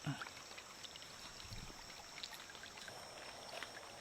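Steady high-pitched insect drone of the rainforest, with faint scattered clicks and taps and a soft thud at the start.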